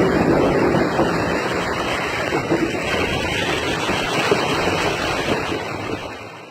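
Steady rushing noise of floodwater and heavy rain, fading out near the end.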